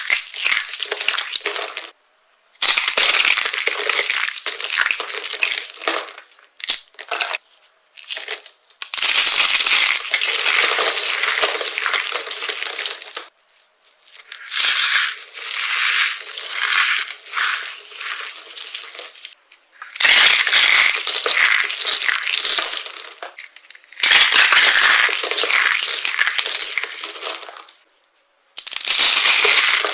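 Dry soap being crushed, crunching and crackling in a series of bursts a few seconds long with brief silences between them.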